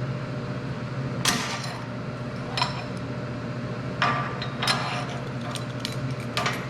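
Hammer striking steel: five sharp metallic blows at irregular intervals, each with a short ring, over a steady low hum.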